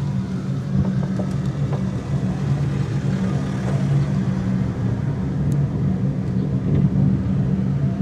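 Aerial cable car running along its cable: a loud, steady low hum with a rumble underneath.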